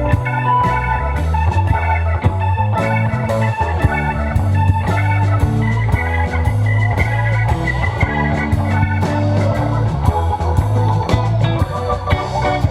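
Live rock band playing an instrumental passage: guitar over a moving bass line and steady drums.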